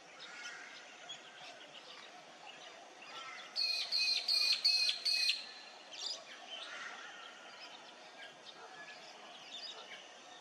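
Birds singing and chirping. One bird close by gives a loud run of about five quick, evenly spaced notes a few seconds in, over fainter chirps from other birds.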